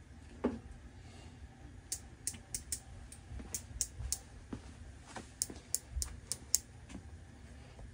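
Hand tools being handled at a workbench: one dull knock, then a string of short, sharp metallic clicks and ticks, over a low steady hum.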